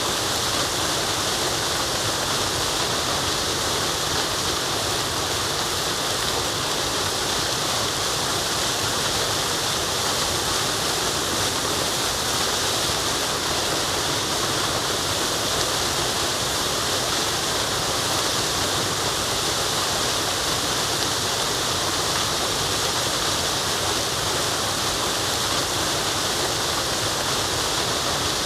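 Waterfall rushing steadily: a dense, even hiss of falling water that never changes.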